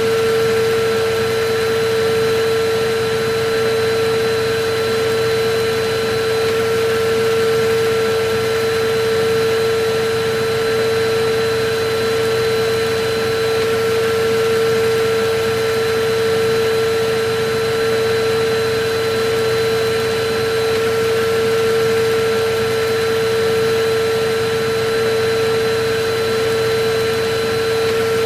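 Electric vacuum cleaner running steadily: an even rush of air with a constant pitched motor hum over it.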